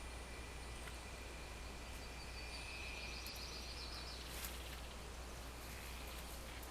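Faint steady background hiss with a low hum and a thin high steady tone that stops about four seconds in; a brief high warbling sound is heard in the middle.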